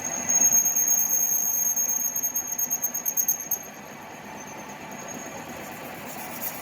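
A high-pitched, steady mechanical squeal that warbles and then cuts off about three and a half seconds in, over lower workshop noise.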